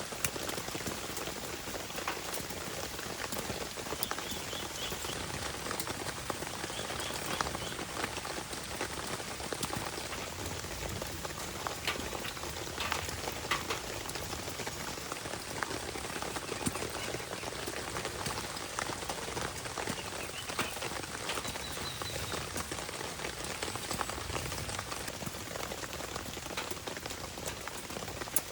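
Steady rain falling, with scattered sharp crackles and pops from a wood fire burning in a stainless steel fire pit.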